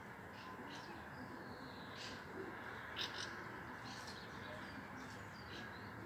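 Songbirds calling: a scatter of short high chirps and brief whistled notes, the loudest about three seconds in, over a steady background rush.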